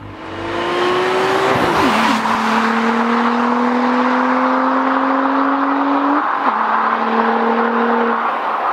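Audi S4 B5's twin-turbo V6 accelerating hard, engine pitch climbing through the gears with upshifts about two seconds in and again about six and a half seconds in.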